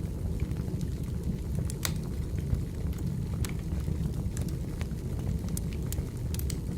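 Burning firewood in a campfire crackling: a steady low rumble of the flames with irregular sharp pops and snaps of the wood, the loudest about two and three and a half seconds in.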